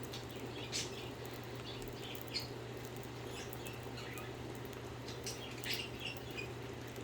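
Budgerigars chirping softly: scattered short, high chirps and a few sharp clicks, over a steady low hum.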